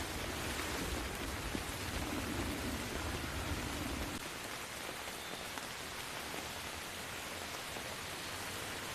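Steady rain falling, an even hiss of many drops. A low rumble of distant thunder underneath fades out about four seconds in.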